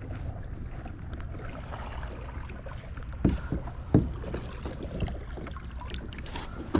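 Kayak sitting on the water: a steady low rumble of wind and water, with two sharp knocks about three and four seconds in and a few fainter taps near the end.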